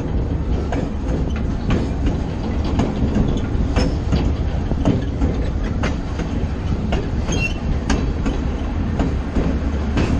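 A train rolling slowly along the track: a steady low rumble with repeated sharp clicks as the wheels pass over rail joints.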